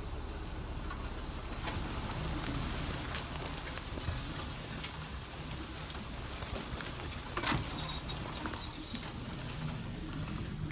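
Car engine running, heard from inside the cabin as a steady low hum, with a few light knocks and faint bird chirps.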